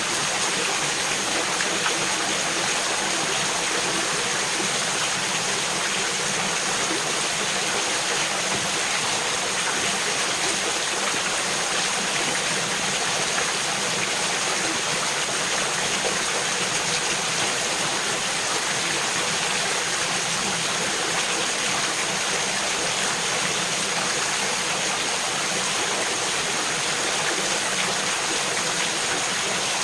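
Mountain creek running steadily over a rocky bed: an even, unbroken rush of water.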